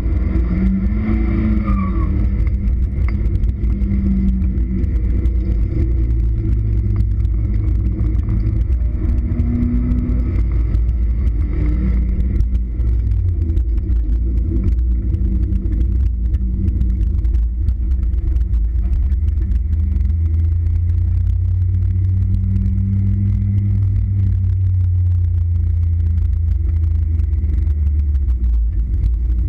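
Mazda Miata's 1.6-litre four-cylinder engine running hard, heard from inside the open-top cabin, with the revs rising and falling through the first half and settling into a steadier pitch after about twelve seconds.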